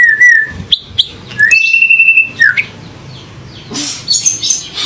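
Male Bali myna calling: a run of short whistled notes and sharp rising chirps, then one long clear whistle held for about a second, then harsh rasping calls near the end.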